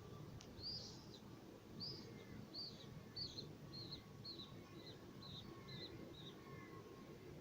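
A bird calling a run of about ten short, high, arched chirps, roughly two a second, fading out about six seconds in, faint over a low background rumble.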